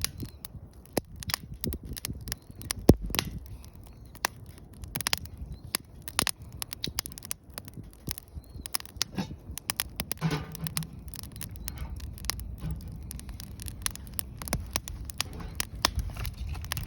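Wood fire crackling, with many irregular sharp pops and snaps over a low rumble.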